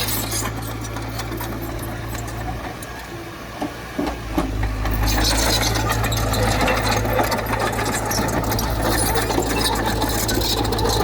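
Heavy earthmoving machine's diesel engine running, with metallic rattling and clatter. The engine sound dips briefly about three seconds in, then comes back louder, with more clatter through the second half.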